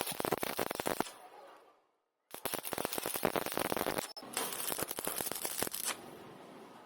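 Electric arc welding crackling while a root pass is laid across a wide gap between metal pieces. The arc fades out about a second in, is silent briefly, then strikes again and crackles steadily to the end.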